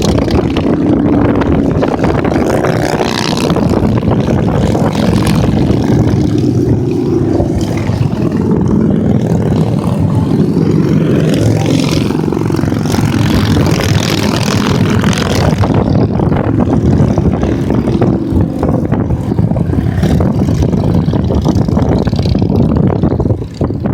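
A continuous stream of motorcycles passing on a highway, many engines running at once with their pitches rising and falling as they go by.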